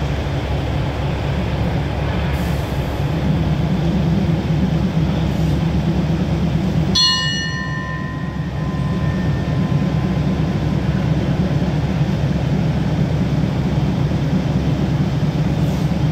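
Diesel railcar train idling at the platform with a steady low rumble. About seven seconds in, a bell is struck once and rings out, fading over a few seconds.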